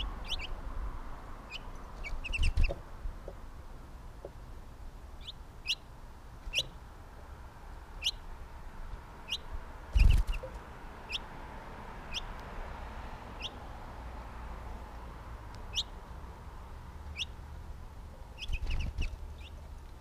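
A small bird calling with short, sharp chirps, about one a second. Low thumps and wing flutter come as birds land on and leave the feeder, the loudest about halfway through.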